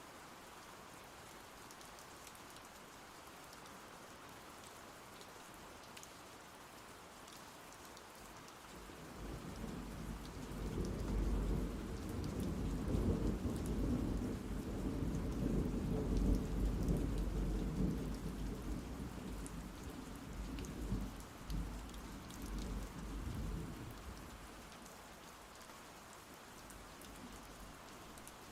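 Steady rain falling, with a long roll of thunder that builds about nine seconds in, rumbles loudest for several seconds and fades away by about twenty-four seconds.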